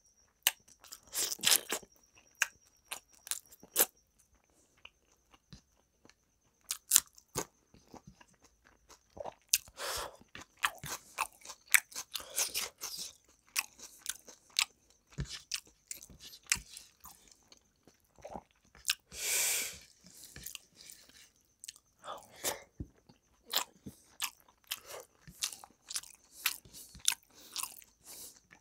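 Close-miked chewing and mouth sounds of a man eating rice and chicken curry by hand: irregular runs of sharp, wet clicks, smacks and crunches, with short quiet gaps between mouthfuls.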